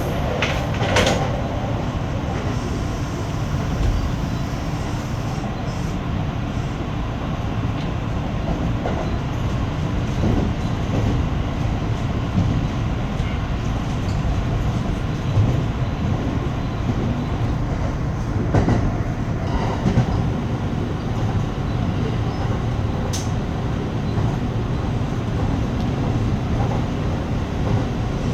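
Kintetsu 9820 series electric train running, heard from inside the train: a steady rumble of wheels on rail, with a few short clacks over rail joints.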